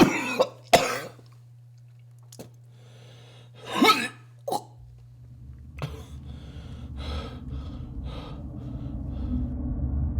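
A man coughing several times in short hard bursts, the loudest about four seconds in, from a feverish illness. From about five seconds in a steady low rumble runs underneath, with a few fainter coughs over it.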